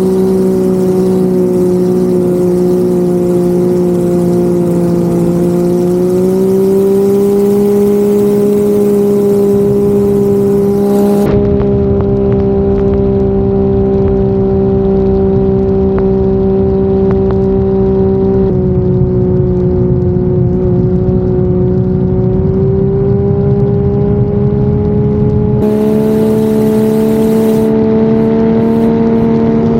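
Turbocharged Ford Barra 4.0-litre inline-six in an 18 ft race boat running hard at steady high revs, a strong droning engine note over rushing noise. The pitch holds nearly level, rising a little a few times and shifting abruptly at a few points.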